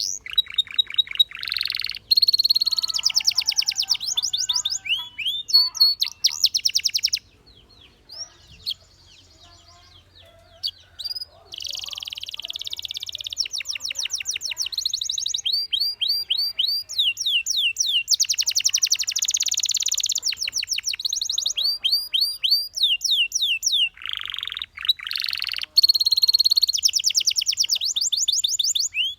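Domestic canary singing: long, fast trills and rolls of rapidly repeated, sweeping notes, one phrase after another, broken by a pause of about four seconds about a third of the way in.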